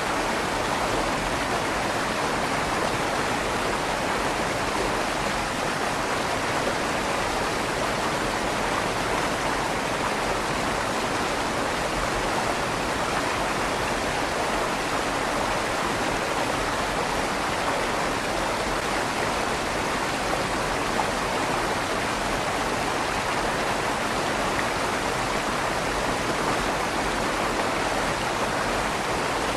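River water flowing steadily through the tunnel under a stone bridge, a constant rushing with a slight echo off the tunnel walls.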